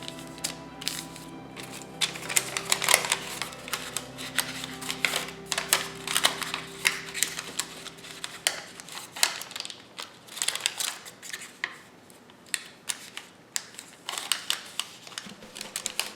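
Square origami paper being folded and creased by hand: irregular crinkles and sharp crackles of stiff paper, over soft background music that fades out about halfway.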